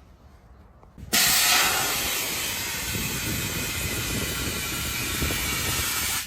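Compressed air hissing loudly, starting suddenly about a second in and cutting off near the end.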